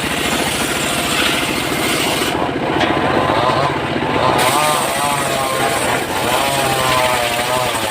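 Engine of a wood-cutting saw running steadily with a rapid, even firing beat. From about two and a half seconds in, a wavering higher whine rides over it.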